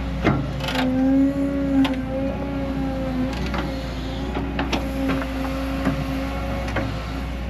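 Cat 316F hydraulic excavator running while it digs: a steady engine hum, with a series of sharp clanks and knocks from the machine working.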